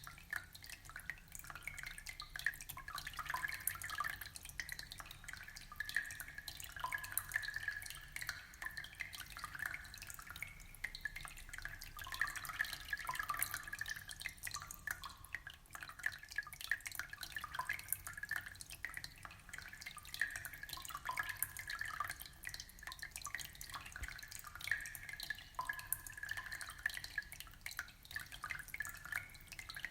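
Aquarium water trickling and bubbling: a continuous run of small drips and splashes with no pause.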